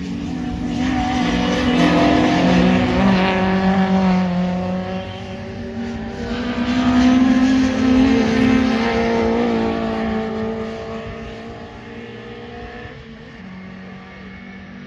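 Pre-1966 touring car racing engines at high revs, several engine notes at once rising and falling as they accelerate and change gear. Loudest about two and seven seconds in, then fading.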